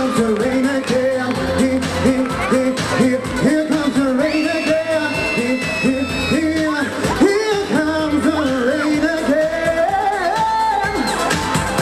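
Live pop music with a lead vocalist singing over a band backing.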